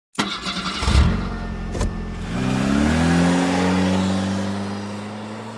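A car engine cranks with a rattle and a couple of knocks, then catches and revs up to a steady run, slowly fading before it cuts off abruptly.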